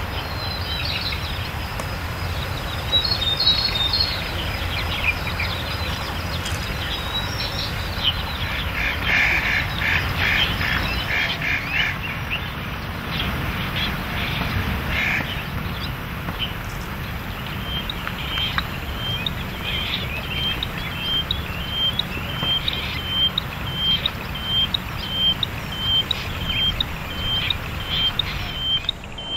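Wild birds calling: a burst of rapid chatter about eight seconds in, then a short high note repeated evenly about twice a second through the second half, over a steady low rumble.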